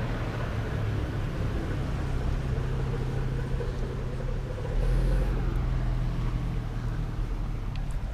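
A car engine running steadily at idle, with a deeper swell about five seconds in.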